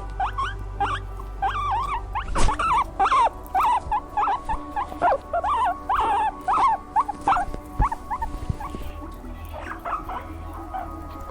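Small animal squeaking and whining in quick, short calls, several a second, thinning out near the end.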